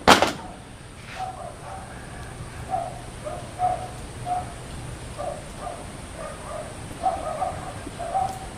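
A sharp click right at the start, then faint short animal calls repeating irregularly in the background.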